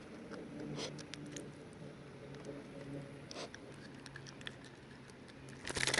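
Light scattered taps and rustles of a small caught bass being handled aboard a kayak, over a faint steady low hum, with a quick flurry of louder clicks and clatter near the end.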